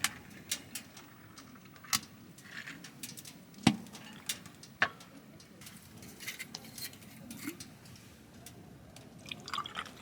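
Scattered sharp clicks and taps over a low background, about one every second or two, the loudest a little over a third of the way in.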